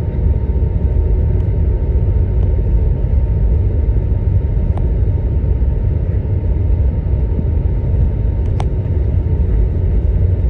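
Steady low rumble inside the cabin of an Airbus A321 on the ground before takeoff, with a faint steady hum and a couple of light clicks.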